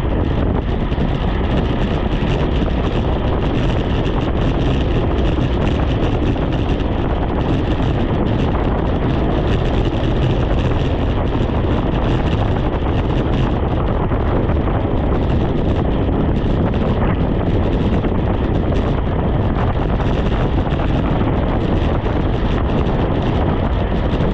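Loud, steady wind noise buffeting the microphone of a camera on a moving bicycle.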